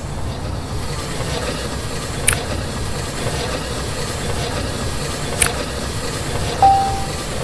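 Train running with a steady low rumble, with a sharp click about every three seconds. Near the end a short, high beep sounds.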